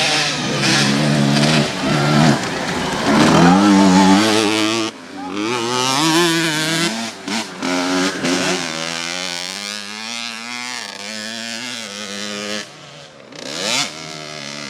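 Motocross bikes racing, several engines revving up and down with pitch rising and falling as they accelerate and pass, briefly dropping away about five seconds in and again near the end.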